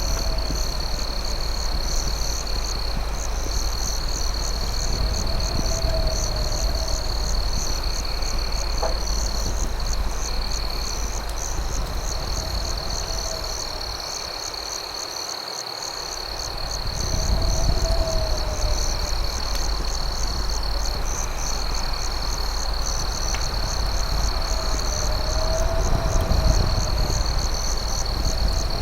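Night cricket chorus: a steady high trill with a faster pulsing chirping above it. A lower call rises and falls every few seconds, over a low rumble and a couple of faint crackles from a campfire.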